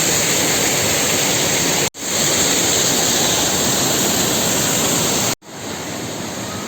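Waterfall: a steady rush of falling water, broken by two brief cuts about two and five and a half seconds in. After the second cut it is somewhat quieter.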